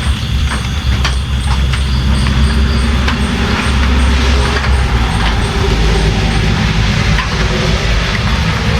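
Steady rain with a heavy low rumble and scattered sharp drop hits, and a faint regular high ticking throughout.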